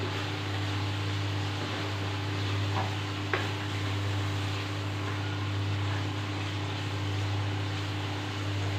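Thick mushroom curry gravy sizzling in a non-stick kadhai on a gas flame as it is stirred with a wooden spatula, over a steady low hum. A single light knock comes about three and a half seconds in.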